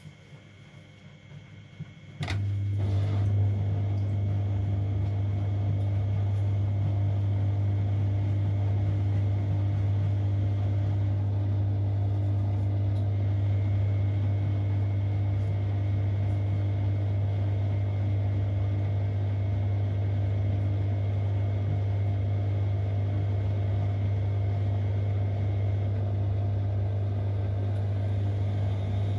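Siemens Extraklasse XLs 140 A washing machine: a loud, steady low hum starts abruptly about two seconds in and holds at an even pitch and level, like the drain pump pumping out the water.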